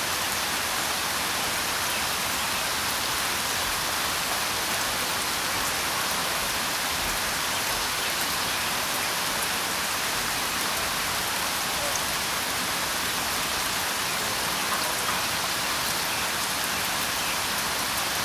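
Steady rain falling: a dense, even hiss, brightest in the upper range, with no let-up.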